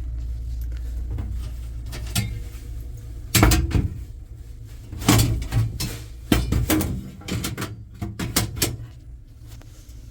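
Knocks and clatter of a dishwasher's parts and panels being handled during repair, over a steady low hum that fades out about three seconds in.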